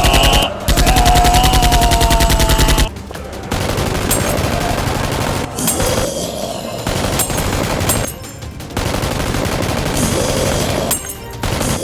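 Rapid automatic gunfire, a loud burst of about two seconds near the start followed by several quieter bursts of shooting, with music underneath.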